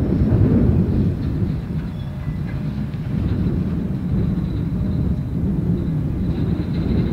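A manifest freight train's cars rolling past on the rails: a steady low rumble, with a faint thin squeal now and then.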